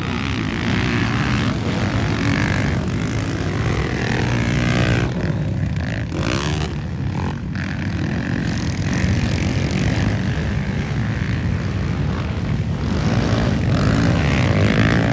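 Motocross motorcycle engines running and revving, with a rising rev about five seconds in.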